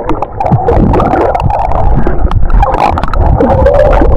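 Water heard through an underwater camera held below the surface: muffled gurgling and bubbling with many small crackles and clicks. Near the end a wavering muffled tone rises over it.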